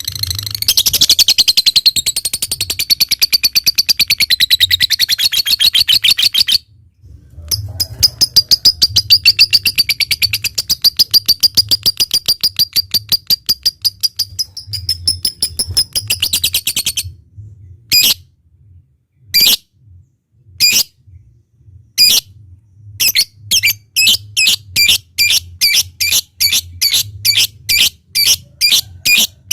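Lovebird chattering in two long, very rapid rattling runs (the 'ngekek' trill). Then, a little over halfway through, it switches to separate sharp chirps, spaced out at first and quickening to about two or three a second near the end.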